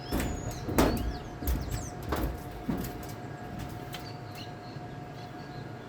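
Small birds chirping, with a few dull thumps and low rumble in the first three seconds over a steady faint hum.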